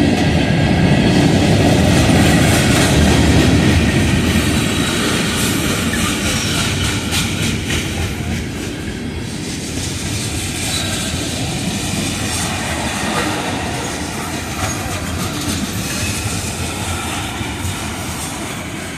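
Illinois Central freight train's tank cars and covered hopper cars rolling past: a steady rumble with the clickety-clack of wheels over the rail joints, growing gradually quieter from about four seconds in.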